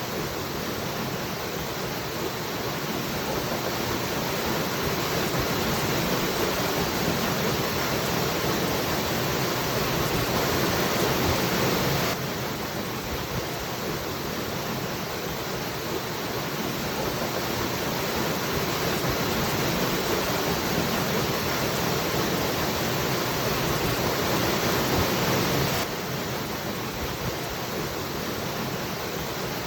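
Waterfall rushing in a steady, even roar of falling water. The level drops suddenly a little about twelve seconds in and again near the end, then slowly builds back up.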